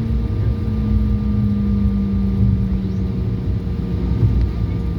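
Airliner cabin noise: a steady low engine rumble with a hum whose pitch slowly falls.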